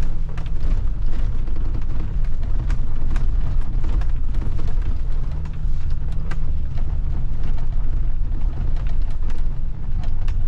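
2008 Ford F-350 pickup heard from inside the cab, a steady deep rumble from engine and road as it creeps over rough, wet ground, with many scattered sharp ticks and knocks.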